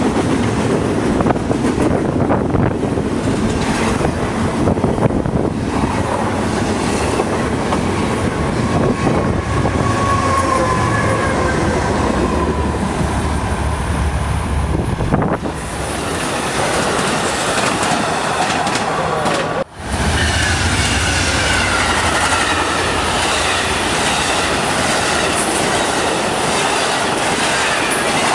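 BNSF double-stack intermodal freight train rolling past at close range, its wheels and cars making a steady loud rumble, with wind noise on the microphone and thin squealing tones from the wheels. About fifteen seconds in it cuts abruptly, twice, to Amtrak passenger trains passing, with more wheel squeal.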